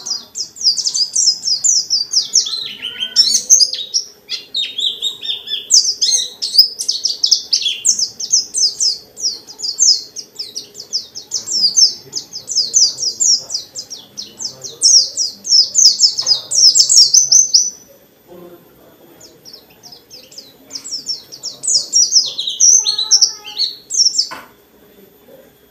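A white-eye (pleci dakun) singing a long, fast, unbroken run of high twittering phrases. It pauses for about two seconds roughly two-thirds of the way through, then takes up the song again.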